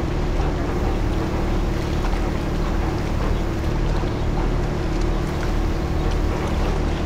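Sightseeing boat's engine running steadily under way, a constant low hum.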